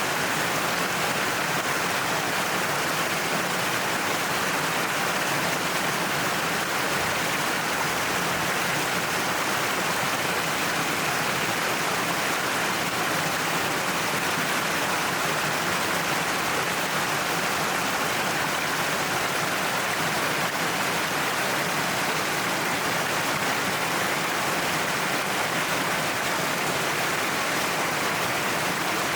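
Waterfall pouring down a cliff face: a steady, unbroken rush of falling water.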